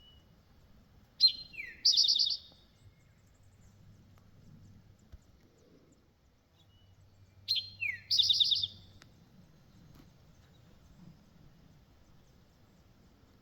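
Towhee singing its three-part song twice, about six seconds apart: a sharp high note, a lower falling note, then a buzzy trill.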